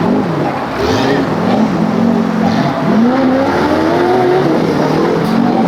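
Off-road competition 4x4's engine revving up and down again and again, its pitch swinging in short rises and falls and then climbing for longer pulls.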